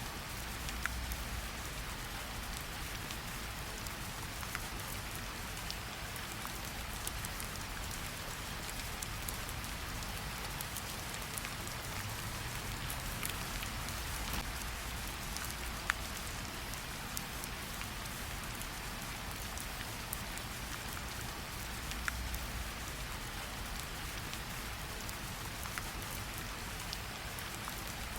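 Steady gentle rain falling on tree leaves, an even hiss with scattered individual drop ticks, one sharper drop about sixteen seconds in.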